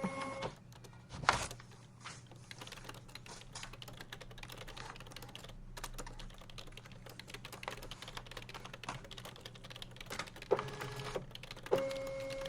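Typing on a computer keyboard: a run of quick, irregular key clicks. A single louder thump comes about a second in. A steady pitched hum cuts out just after the start and comes back near the end.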